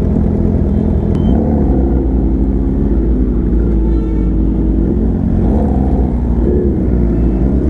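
Sport-bike engines, among them a Kawasaki ZX-10R's inline-four, running at low revs while rolling slowly together in traffic. A deep, steady rumble with small rises in pitch now and then.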